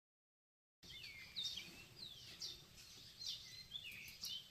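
Small birds chirping: a run of short calls that slide down in pitch, about two a second. They start suddenly about a second in, after dead silence.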